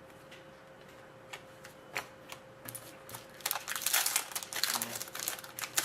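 Trading cards being handled: a few scattered light clicks, then from about three and a half seconds in a quick run of crisp clicks and rustling as cards are flipped and slid against each other.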